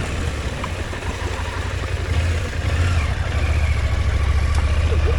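Motorcycle engine running at low revs with a steady low drone, picking up a little about three seconds in.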